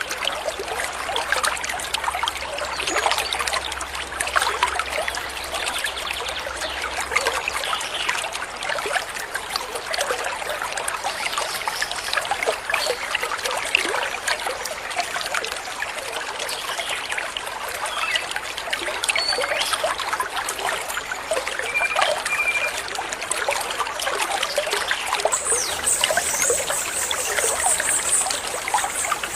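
Water trickling and babbling in a small stream, steady and continuous, with a few brief bird notes. A high, shrill, pulsing sound joins in near the end.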